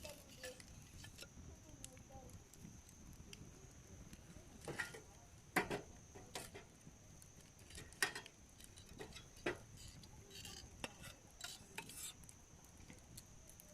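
Wood campfire burning with irregular sharp crackles and pops. The loudest pops come about five and a half and eight seconds in.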